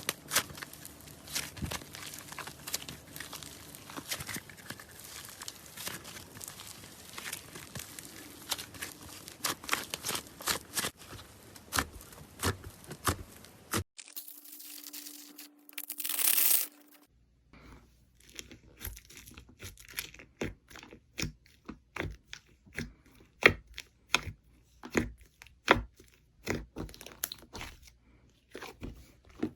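Slime being squeezed and pressed by hand, giving dense rapid crackling at first. About fourteen seconds in there is a short hiss, then sparser sharp pops and clicks.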